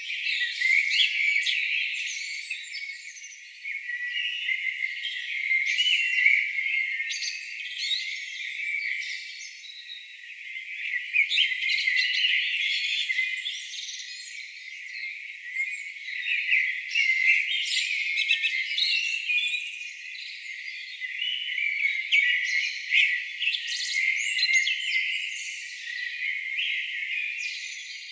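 A chorus of songbirds: many birds chirping and trilling at once, several songs overlapping throughout, with the low end filtered away.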